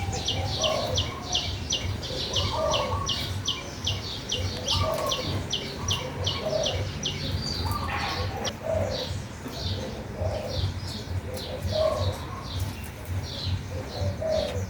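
Birdsong: one bird repeats a fast series of high chirps, about four a second, thinning out after the middle. Lower cooing calls come in every second or so underneath.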